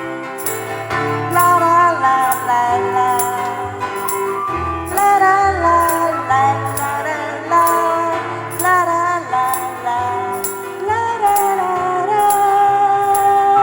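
Live band music with no words sung: a bass line, a gliding melody line and a steady beat of light percussion ticks about twice a second.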